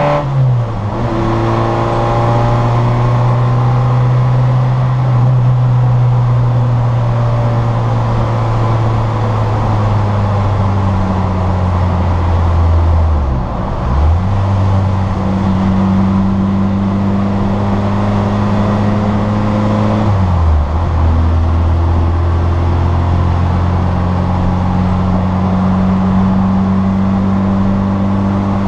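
Citroën Saxo VTR's 1.6-litre four-cylinder engine running hard at racing revs, heard from inside the car. The pitch drops at an upshift right at the start, then holds and slowly climbs, with two brief sharp dips and recoveries in pitch, near the middle and about two-thirds of the way through.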